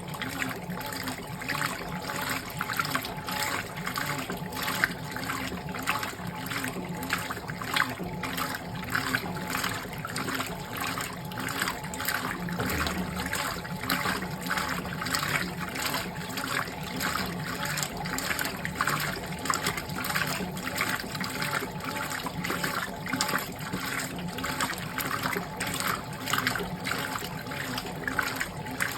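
Fisher & Paykel GW712 top-loading washing machine working a load in water: steady sloshing with repeated splashes about twice a second, over a low steady hum.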